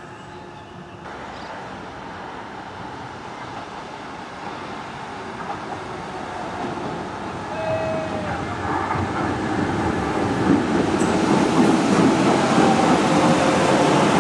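Docklands Light Railway train approaching, its running noise on the rails growing steadily louder.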